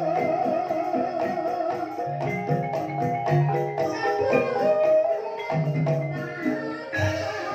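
Banyumasan gamelan ensemble playing a gending in ebeg style, with mallet-struck keyed instruments ringing over held low tones.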